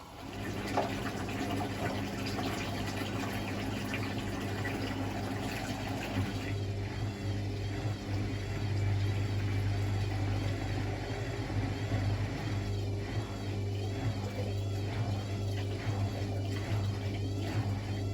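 Hotpoint WML540 washing machine running a wash: water swishing and sloshing in the turning drum over a steady low hum. The sound comes in suddenly at the start, and from about two-thirds of the way through the sloshing pulses regularly.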